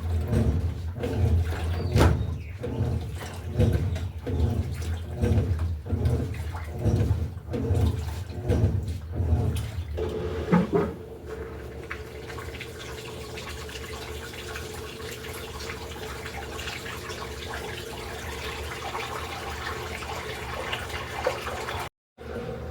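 Electrolux LTE08 top-loading washing machine agitating, the water churned in a regular rhythm of about one stroke a second. About halfway through the agitation stops and a steady hum with running water takes over.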